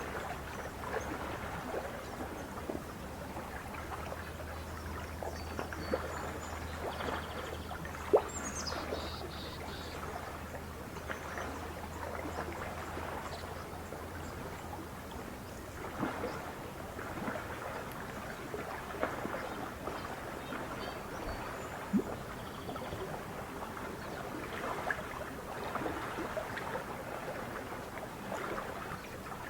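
Small waves lapping and splashing at a lake's edge, a steady wash of water full of little clicks and drips, with a sharper splash or knock about eight seconds in and again near 22 seconds. A brief high bird chirp sounds about eight seconds in, and a low hum runs under the first half before fading out.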